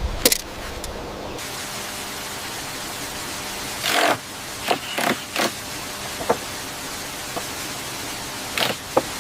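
A steady rushing hiss broken by about eight irregular knocks and taps, the heaviest about four seconds in and a quick cluster just after it, typical of wood being handled and struck during building work.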